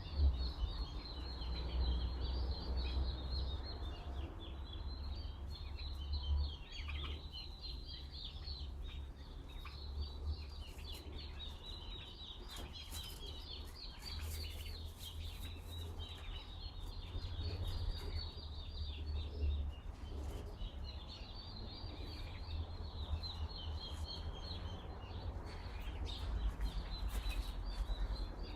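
Small birds twittering continuously in quick, high chirps, over a low, uneven rumble of wind on the microphone.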